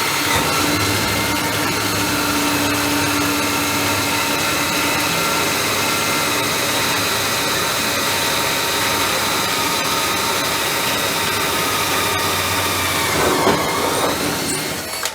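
A motor-driven machine running steadily with a constant whine, then winding down with falling pitch as it is switched off near the end.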